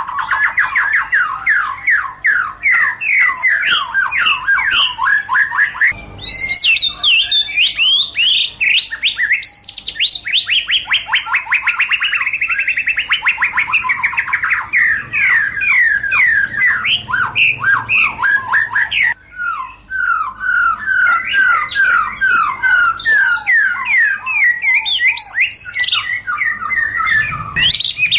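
White-rumped shama singing a long, fast run of rapid repeated sweeping notes, several a second, shifting from one phrase to the next every few seconds with a brief pause about two-thirds of the way through.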